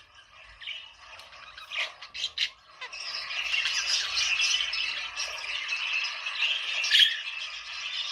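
A flock of budgerigars chattering and warbling. A few separate calls come first, then dense chatter from about three seconds in, with one loud squawk near the end.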